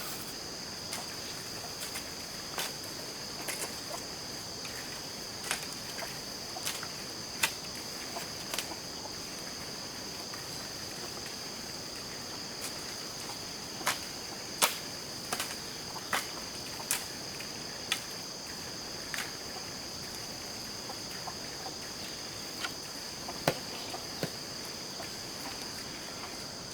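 Steady high-pitched insect chorus, with scattered sharp clicks or taps over it, a few of them louder, around 14 to 17 seconds in and near 23 seconds.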